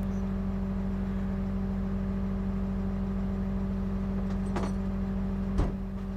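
A 2023 Freightliner rollback tow truck's diesel engine running at a steady idle, with a couple of light clicks and a short knock near the end.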